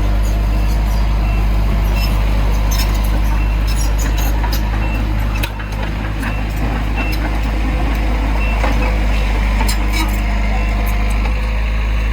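Diesel engine of heavy earthmoving machinery running steadily at a low drone, with scattered short clanks and clicks over it.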